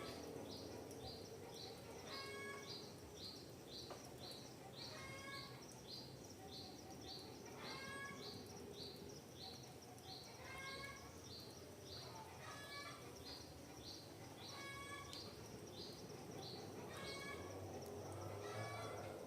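Forest birds singing: one bird repeats a short high chirp about twice a second throughout, while another gives a brief lower call roughly every two seconds, over faint steady background noise.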